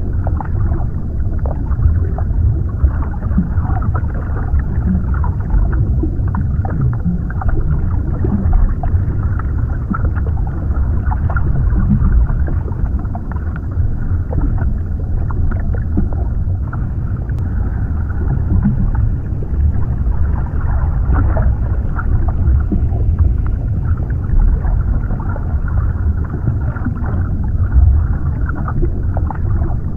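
Underwater ambience: a steady, deep rumble with the high end cut off, scattered with many small crackles.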